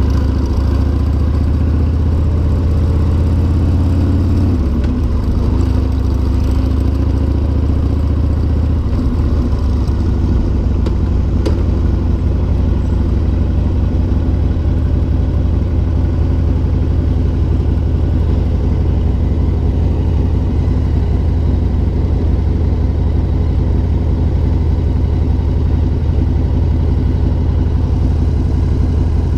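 1996 Harley-Davidson Sportster 1200 Custom's air-cooled V-twin engine running on the road, its pitch falling over the first few seconds as the bike slows, then settling into a steady low beat with the bike stopped at an intersection.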